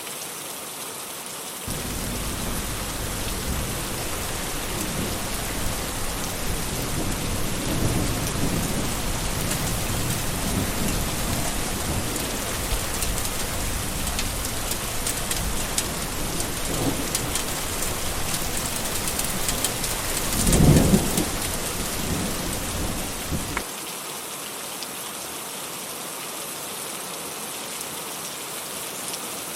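Steady rain falling, with thunder rumbling low from about two seconds in; the rumble swells to one loud peal about two-thirds of the way through, then stops abruptly, leaving the rain alone.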